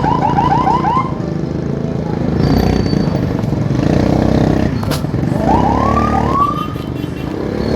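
A siren sounds in traffic: a quick run of rising yelps in the first second, then two or three slower rising whoops about six seconds in. Underneath runs a steady motorcycle engine and road traffic noise.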